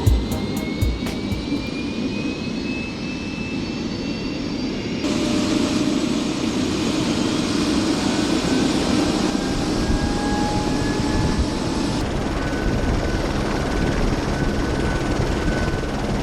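Helicopter turbine engine running: a thin whine rising slowly in pitch over a steady rush of engine and rotor noise. The sound changes abruptly twice.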